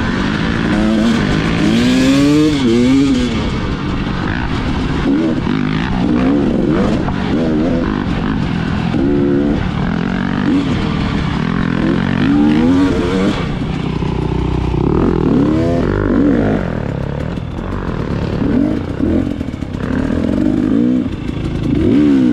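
Dirt bike engine revving up and down over and over, the throttle opened and closed every second or two as it rides a trail.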